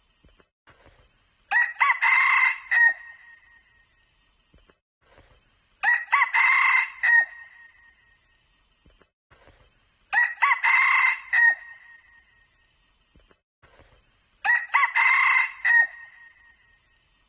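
Red junglefowl cock crowing: four short, clear crows about four seconds apart, each shaped alike.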